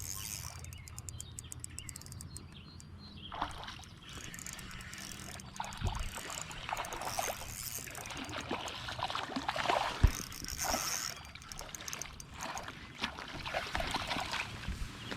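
River water splashing and sloshing around a wading angler as a hooked smallmouth bass is played, loudest around the middle. A rapid, even ticking runs through the first three seconds or so.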